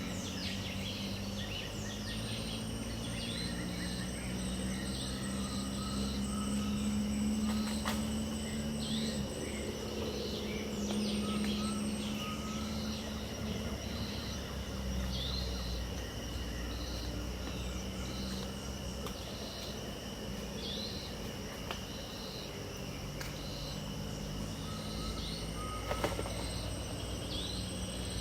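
Pantanal dawn chorus: birds calling in short, regularly repeated chirps over a steady high insect drone, with a low steady hum underneath. A single sharp click near the end.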